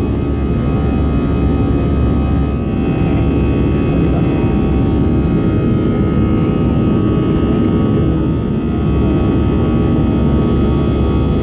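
Airbus A320 cabin noise in flight: a steady engine and airflow drone with several steady high whining tones running through it.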